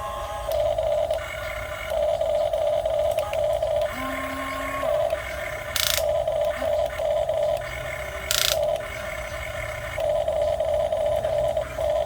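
Huina 1550 RC excavator's small electric gear motors whirring in repeated spurts of about a second each, starting and stopping as the arm, bucket and swing are worked. Two short hisses come about six and eight seconds in.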